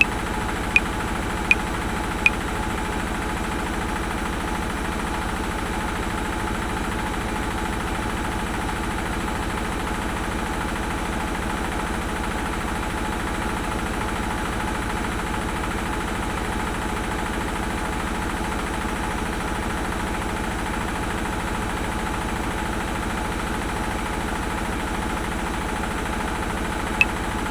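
Washing machine running with a steady hum and rumble. A metronome clicks at 80 beats a minute over it: four clicks at the start, then about 24 seconds of the machine alone, and one click again near the end.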